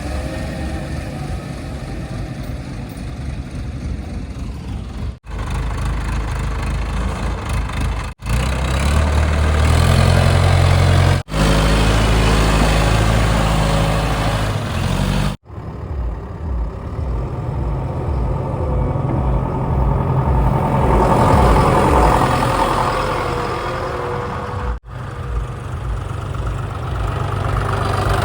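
Heavy diesel engines of earthmoving vehicles running, idling and revving, in several short segments that change abruptly every few seconds.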